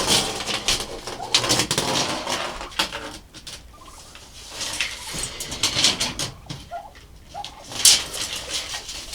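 Chickens clucking and calling, with scattered clicks and rustling close by.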